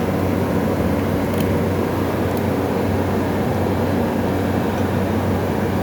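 A 350-watt refrigerator compressor, wired directly to power, humming steadily and loudly with a rough mechanical noise underneath. The compressor is mechanically jammed.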